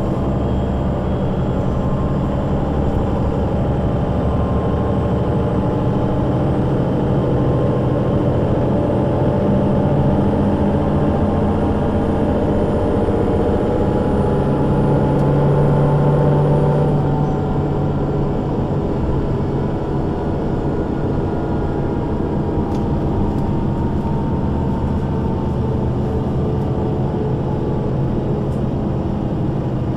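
Solaris Urbino 12 III city bus with a Voith automatic gearbox under way, its diesel engine and driveline running. The engine note climbs steadily as the bus gathers speed, then changes abruptly a little past halfway, like a gear change, and runs on slightly quieter.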